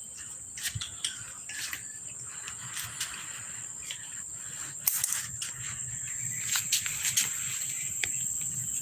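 Crickets chirring in a steady high-pitched drone, with scattered sharp clicks.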